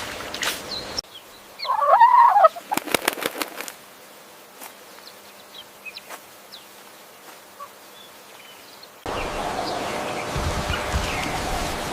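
A bird's short call, followed by a quick run of sharp flapping or clattering sounds and faint chirps. Separate clips are cut in: animal sounds at the start, and a steady rush of outdoor noise from about nine seconds in.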